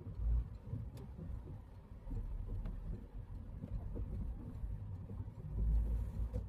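Citroën C3 driving in the rain, heard inside the cabin: a steady low rumble of road and engine noise that swells a few times, with a few faint ticks.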